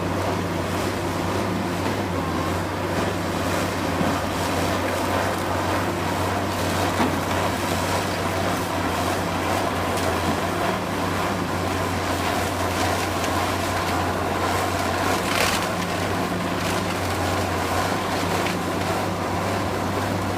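Demolition machinery's diesel engine running steadily with a low hum, with a brief sharp knock or crash about three-quarters of the way through.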